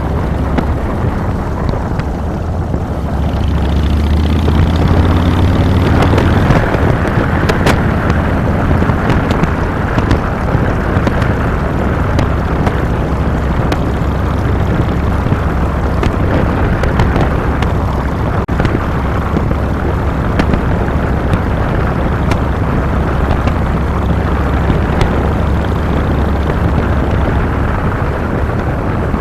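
2007 Harley-Davidson Fat Boy's air-cooled V-twin engine running under way. A few seconds in it pulls up with rising pitch to its loudest point, then settles into steady cruising mixed with wind and road noise.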